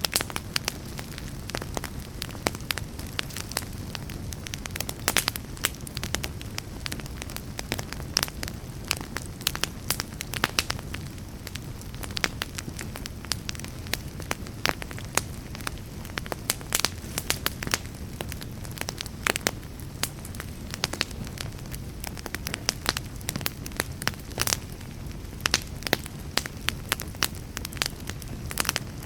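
Wood fire in a fireplace crackling and popping, with irregular sharp snaps several times a second over a steady low rumble.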